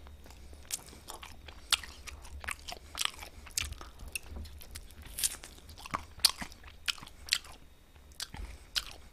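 Close-miked biting and chewing on a piece of soy garlic chicken: irregular wet mouth smacks and crunches, several a second.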